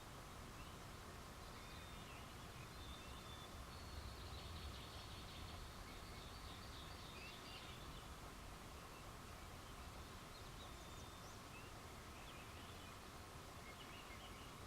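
Faint night-time outdoor ambience: scattered high-pitched chirps and short rising calls from small wild animals, with a denser trill a few seconds in, over a steady low hiss.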